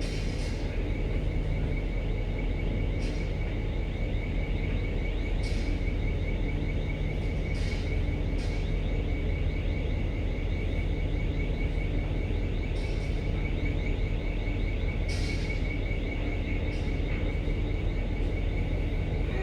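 Steady low drone of a ship's engine and machinery, with a constant high-pitched whine over it and short hissing bursts every few seconds.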